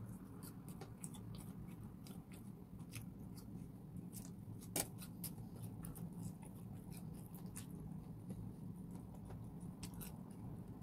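A person chewing food, with many small wet mouth clicks and one sharper click about halfway, over a low steady hum.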